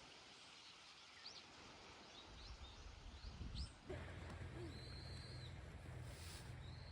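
Faint bird chirps, a string of short rising calls followed by a longer, level note, over outdoor ambience; a low steady hum comes in a little under four seconds in.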